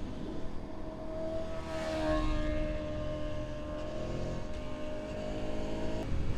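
Aprilia Tuono V4 motorcycle's V4 engine running at a steady pace under way, over low wind rumble. The engine note holds mostly level, dips slightly about two seconds in, and drops away abruptly near the end.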